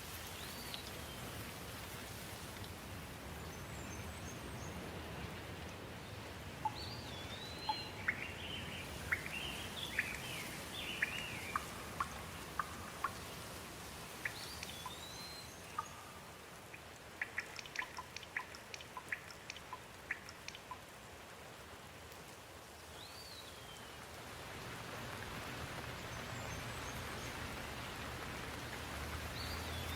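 Steady rain falling, with birds chirping over it through the first two-thirds. In the middle there is a scattered run of sharp ticks from drops striking a surface.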